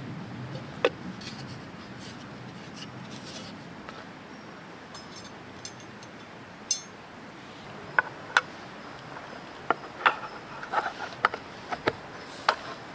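Wood fire crackling: irregular sharp pops over a steady low hiss, coming more often from about eight seconds in.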